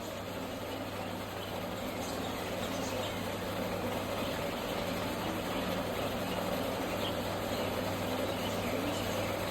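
A steady low mechanical hum, like an engine running, that grows slightly louder.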